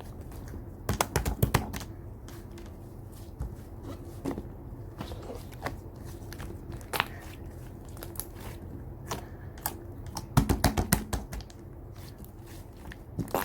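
Slime being squished and stretched by hand, giving sharp clicks and crackling pops, with dense flurries about a second in and again around ten seconds in.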